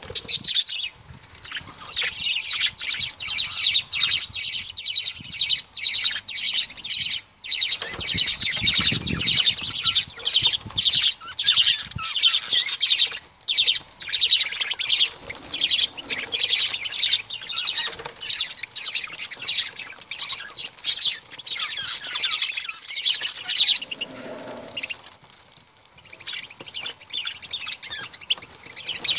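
Pet lovebirds chattering: a dense, near-continuous stream of shrill chirps and squeaks, with a couple of brief lulls.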